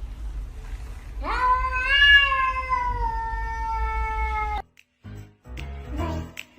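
A cat giving one long, drawn-out meow that rises at the start and slowly falls, over a low rumble; it cuts off suddenly and music with a beat follows.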